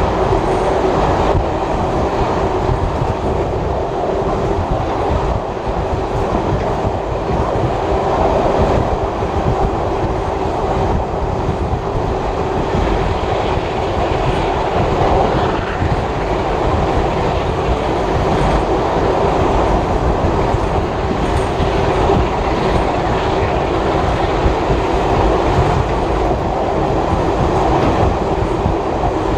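Passenger train carriage running along the line: a steady rumble of wheels on the rails with clickety-clack over rail joints and a steady hum.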